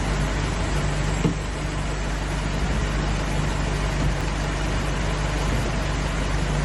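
A motor vehicle's engine running steadily under a constant hiss of noise.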